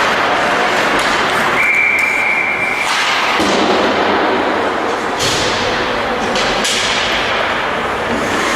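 Game noise in a large hall: a referee's whistle blown once, held for just over a second, then scattered thuds and knocks of play.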